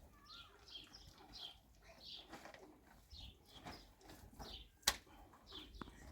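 Small birds chirping over and over in short, high notes. A single sharp knock comes about five seconds in.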